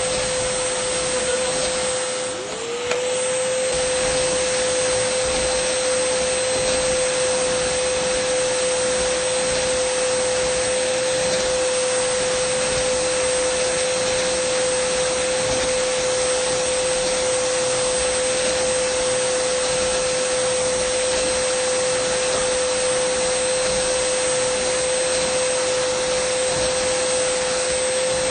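Dyson vacuum cleaner running continuously: a steady rushing airflow with a high motor whine. About two to three seconds in it briefly dips, its pitch sagging and rising back, then it holds steady.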